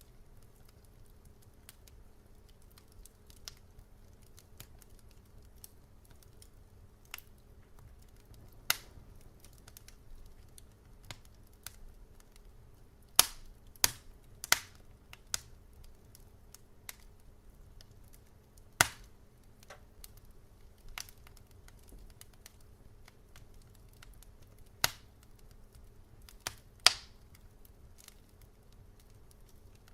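Wood fire crackling: scattered sharp pops and faint ticks at irregular intervals, with a cluster of louder pops in the middle, over a faint steady low hum.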